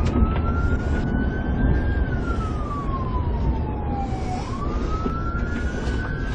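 Police car siren on a slow wail, its pitch rising for about two seconds and falling for about two, then rising again, over steady engine and road noise from the pursuing car.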